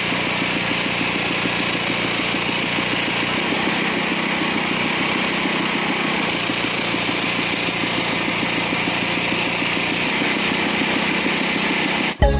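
Engine of a well-drilling rig running steadily, with no change in speed. Music cuts in right at the end.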